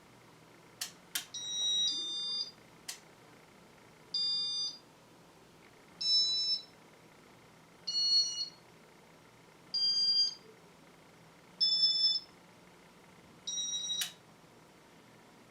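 Electronic beeping, one high beep about half a second long roughly every two seconds, with a few sharp clicks near the start and near the end, over a faint steady low hum.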